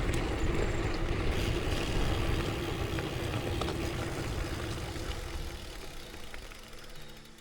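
Wind rush on the microphone and the tyre noise of a bicycle rolling along the trail: a steady rumble that fades gradually as the bike slows.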